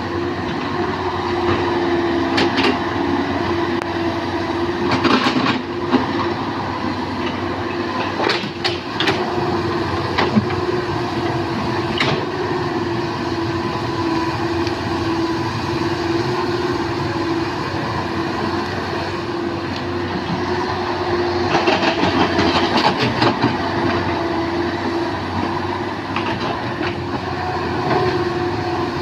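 Hydraulic excavator working: the diesel engine runs steadily under load with a constant whine, and metal clanks and knocks sound now and then from the bucket, boom and tracks.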